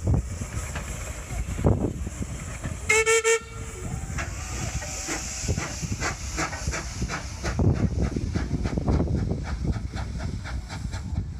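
Hunslet Austerity 0-6-0 saddle tank steam locomotive working along with rhythmic chuffing, giving one short whistle blast about three seconds in.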